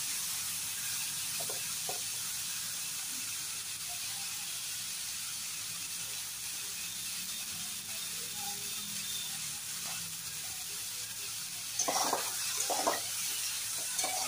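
Mixed vegetables sizzling steadily in hot oil in a kadai, the vegetables fried through. A few short, louder noises come near the end.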